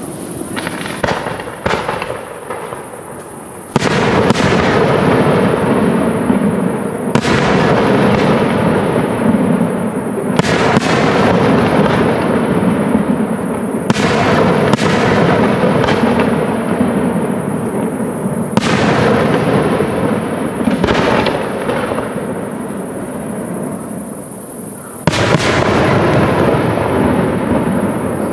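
Aerial firework shells bursting overhead: about seven heavy bangs a few seconds apart, each followed by a long rolling echo.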